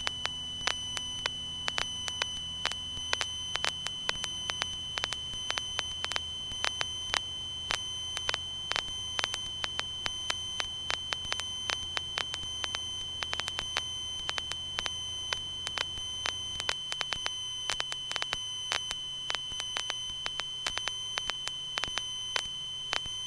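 A steady high-pitched electronic whine with frequent irregular clicks, over a low hum that cuts out about three-quarters of the way through.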